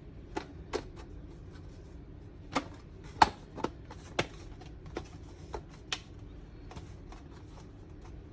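Plastic diorama wall pieces being handled and pushed into place: a string of irregular sharp clicks and knocks, the loudest about three seconds in, thinning to faint ticks after about six seconds.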